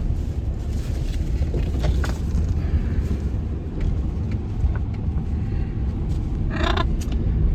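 Car cabin road and engine noise, a steady low rumble, with a short harsh macaw squawk near the end.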